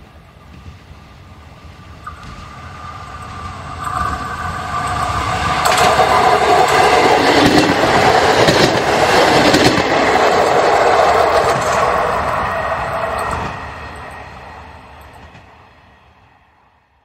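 PESA SA134 diesel railbus passing close by. Its engine hum grows louder as it approaches, peaks with a run of wheel clicks as it goes past, then fades away near the end.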